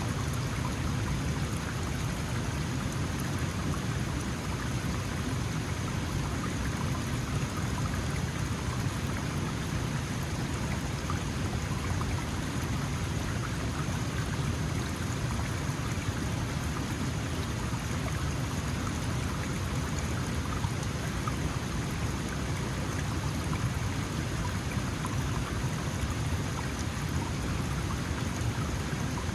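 Small mountain stream flowing over stones: a steady, even rush and babble of water.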